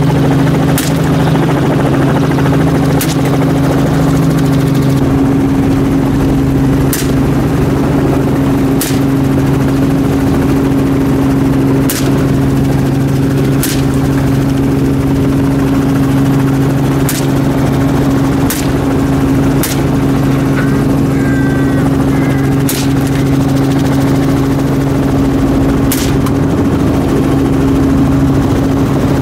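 Helicopter running steadily overhead, its rotor and engine giving a constant drone with two steady low tones. About eleven sharp shots ring out over it at irregular intervals, one to four seconds apart.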